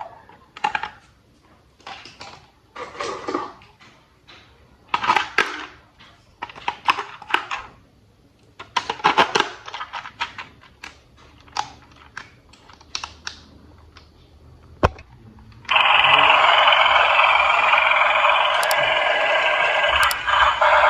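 Plastic toy parts handled and fitted together: scattered clicks and rustles. About fifteen seconds in, a sharp click is followed by a loud, continuous buzzing electronic sound from a battery-powered toy train switched on.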